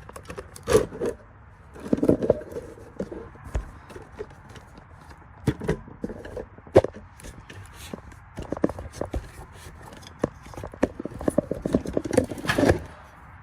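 Irregular metallic knocks, clanks and scraping as the dryer's heating element assembly is handled and worked into place inside the sheet-metal cabinet.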